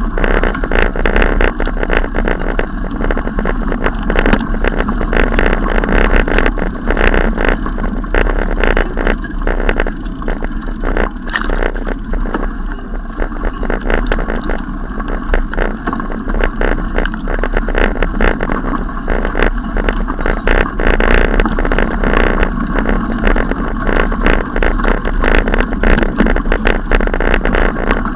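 Steady, loud wind noise and rattling on a camera carried along on a moving bicycle, with many quick knocks.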